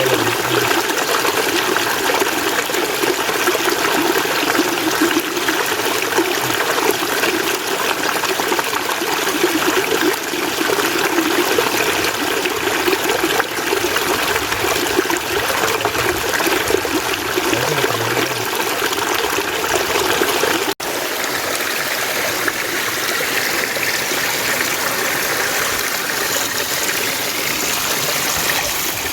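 Mountain stream water running steadily over rocks. There is a brief break about two-thirds of the way through, after which the water sounds lighter and higher.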